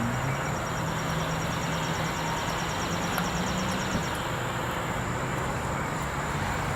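Steady outdoor background noise with a low engine-like drone that rises at the start and fades out about four seconds in, under a high, thin insect buzz and a fast high chirping of about ten pulses a second that stops partway through.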